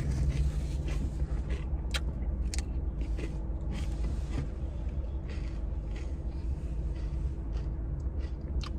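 Waffle cone being chewed, with a few short sharp crunches, over a steady low hum inside a car cabin.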